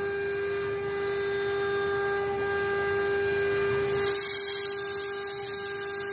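CNC router spindle running with a steady high whine. About four seconds in, a loud high hiss joins it.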